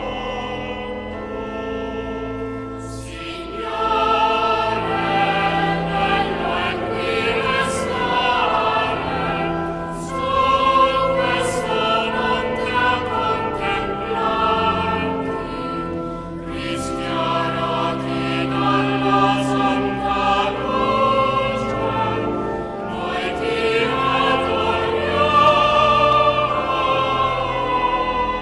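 Classical choral music with orchestra: voices singing long notes with vibrato, swelling fuller about three seconds in.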